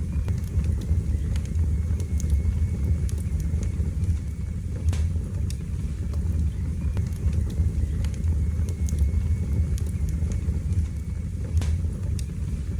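Wood fire burning in a fireplace: a steady low rumble of flames with scattered sharp crackles and pops from the logs. A faint thin whistle runs through most of it and stops near the end.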